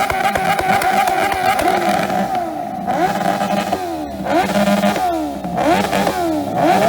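Several motorcycle engines revved hard at once, held near the rev limiter, with a steady high note and repeated quick rises and falls in pitch.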